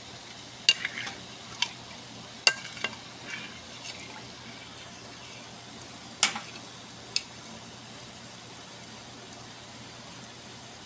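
Cornstarch-thickened chicken asado sauce boiling in a pot, with a spoon clinking against the pot several times during the first seven seconds, the loudest clink about six seconds in.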